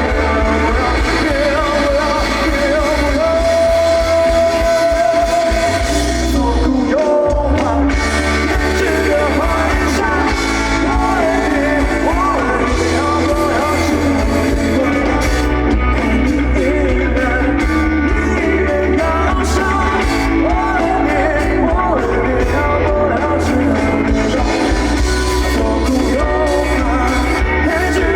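Live band performance with a singer: vocals over bass, drums and guitars. The singer holds one long note for a few seconds, and the band briefly drops out about seven seconds in before coming back in full.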